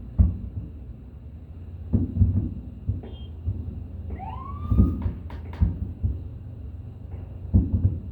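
Fireworks shells bursting, a run of dull booms a second or two apart over a low rumble. About four seconds in, a short rising tone sounds, followed by a few sharp cracks.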